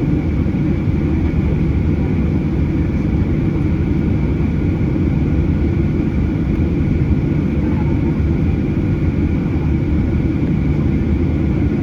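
Steady cabin noise inside a Boeing 737-800: a low, even rumble of engines and airflow with faint steady whining tones from its CFM56 engines.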